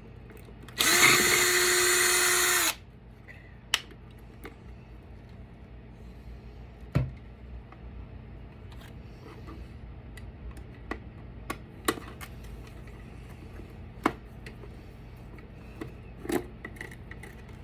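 A power drill-driver runs steadily for about two seconds near the start, then light clicks and knocks follow as parts of a battery backup unit are handled.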